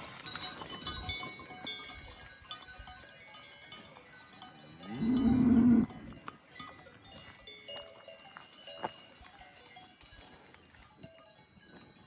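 Cowbells on grazing cattle clanking and ringing, with one loud call from a cow about five seconds in, lasting about a second.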